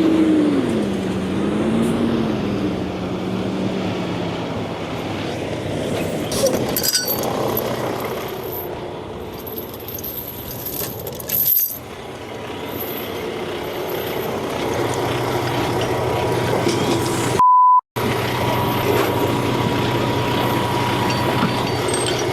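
Truck engines running under load during a chain recovery, the engine note dropping soon after the start, with a few metallic clinks. About seventeen seconds in, a short loud tone is followed by a brief cut-out.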